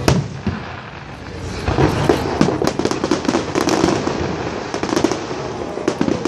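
Aerial fireworks display: a single sharp bang right at the start, then, from about a second and a half in, a dense run of rapid crackling pops from glittering crackle shells.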